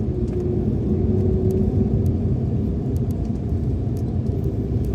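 Steady low rumble of a moving vehicle heard from inside, with a constant hum and a few faint ticks.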